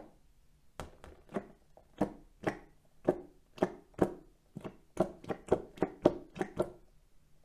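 A series of light taps or knocks, each with a short ringing tone, coming irregularly about two a second and closer together around five seconds in, then stopping.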